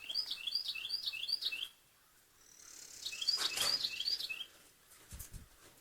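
A songbird singing two phrases, each a quick series of about four repeated two-note downward-sweeping whistles; a rushing noise swells and fades under the second phrase.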